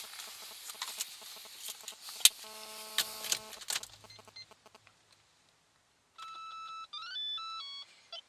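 Scattered clicks and crunching, then a single electronic beep about a second long. A few seconds later comes a short electronic tune of stepped, gliding beeps.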